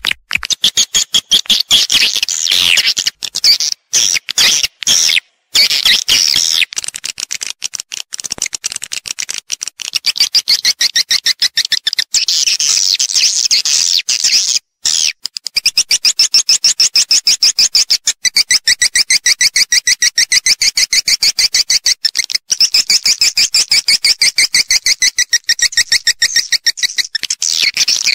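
Swiftlet calls: dense trains of rapid, high twittering chirps, many pulses a second, broken by a few short gaps. This is the call-and-roost lure sound played in swiftlet houses to draw the birds in to roost and nest.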